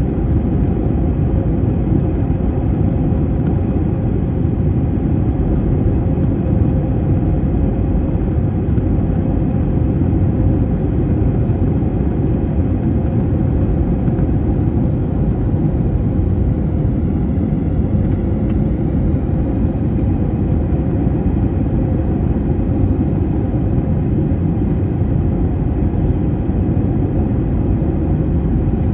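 Steady rumble of an airliner's engines and airflow heard inside the passenger cabin, with a faint steady hum running through it.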